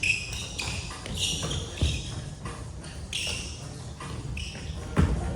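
Basketball thudding on an indoor court a few times (near the start, about two seconds in and near the end), with players' shoes shuffling on the floor in between, in a hall that echoes.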